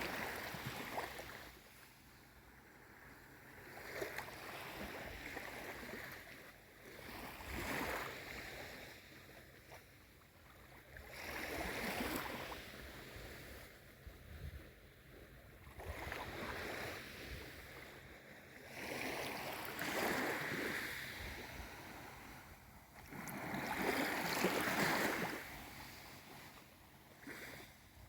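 Small waves on a calm sea lapping and washing in, each soft wash swelling and fading every few seconds.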